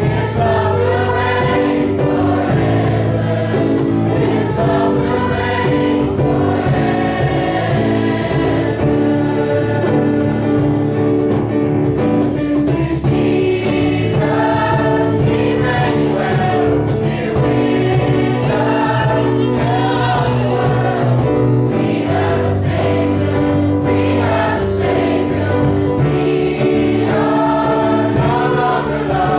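A choir singing a Christian song over sustained instrumental accompaniment.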